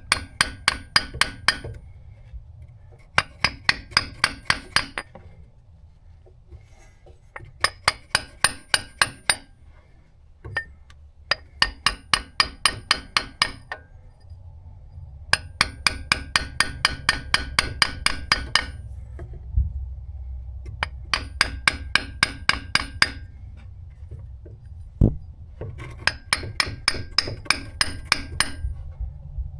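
A 2-pound mini sledgehammer striking a half-inch socket extension in quick runs of ringing metal-on-metal taps, about four or five a second, with short pauses between runs. The taps are driving a new transmission output shaft (axle) seal evenly into its bore.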